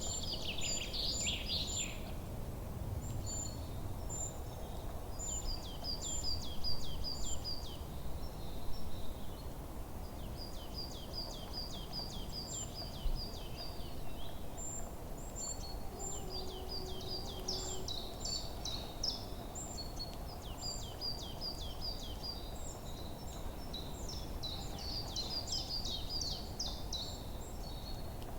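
Forest songbirds singing, repeating phrases of quick, high chirping notes that overlap and come in short bursts with brief pauses, over a steady low background rumble.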